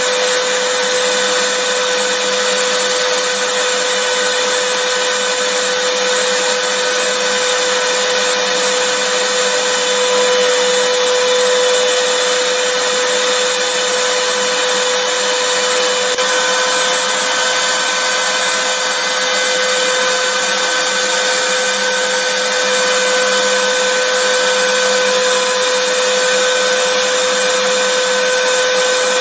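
Vacuum cleaner running steadily: an even rushing noise with a constant high whine from its motor.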